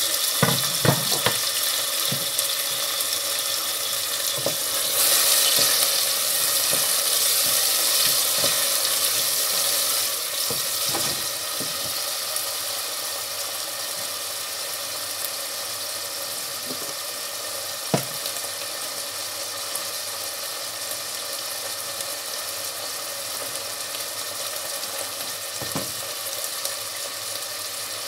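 Chopped onion, green chillies and tomato frying in oil in a stainless-steel pot: a steady sizzle, loudest about five to ten seconds in, then settling a little lower. A few short knocks of the wooden spoon against the pot come through near the start and twice later.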